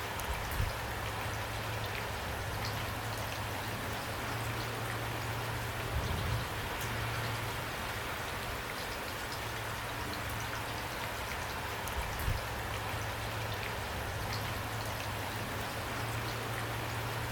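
Steady rain falling, with individual drops ticking through it and a low steady rumble underneath. A few dull low thumps come about half a second, six and twelve seconds in.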